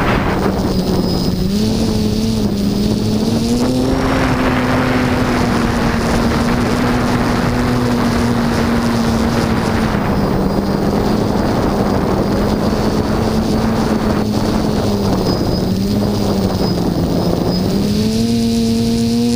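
HT-FPV Hoverthings quadcopter's motors and propellers humming steadily, the pitch dipping and rising several times as the throttle changes. Heavy wind rush on the microphone lies over the hum.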